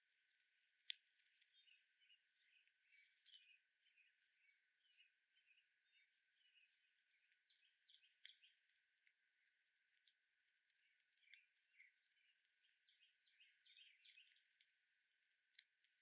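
Faint chorus of small wild birds chirping: many short, high calls and quick down-sweeping notes that overlap one another.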